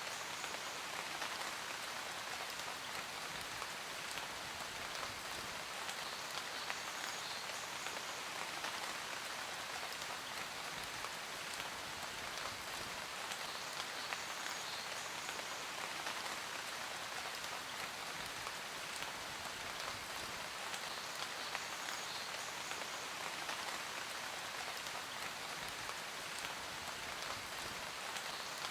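Steady rain falling on a surface: an even hiss of rainfall with many small drop patters and no change in strength.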